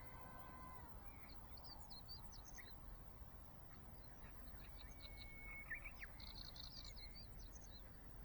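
Small electric RC plane's brushless motor whining at a steady pitch, then cutting off about a second in. Faint bird chirps follow.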